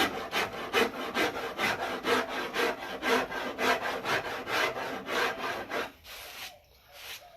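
Hand rasp rasping a wooden bass neck in quick, even strokes, about three or four a second, as the neck is carved to shape; the strokes stop about six seconds in.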